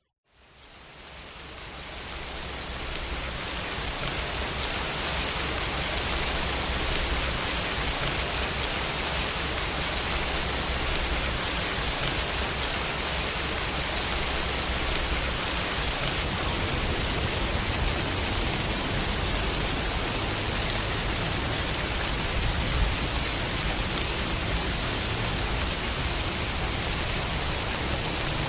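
Steady heavy rain falling, an even hiss with a low rumble underneath, fading in from near silence over the first few seconds.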